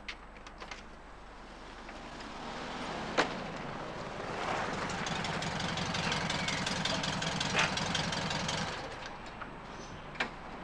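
Open-top roadster's engine turning over and running for about four seconds, with a fast pulsing low rumble, then cutting off. A few sharp knocks fall around it.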